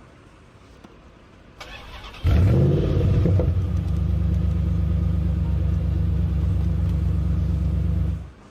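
Car engine starting: a short burst of noise, then it catches about two seconds in with a brief rise in pitch and runs at a steady idle, cutting off abruptly near the end.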